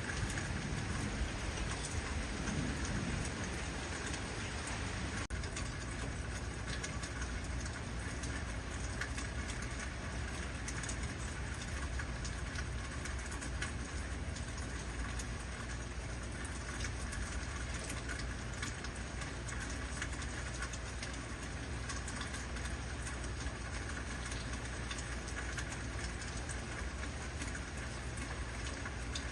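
Heavy rain falling steadily, a dense even hiss of drops on surfaces, with a low rumble easing off over the first few seconds.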